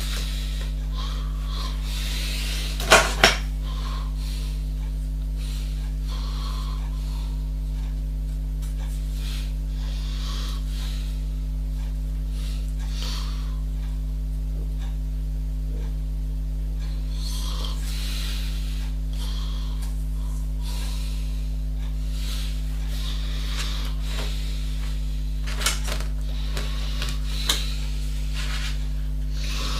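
Steady low electrical hum with faint rubbing and handling noises over it. A few sharp clicks break in: a double click about three seconds in and a couple more near the end.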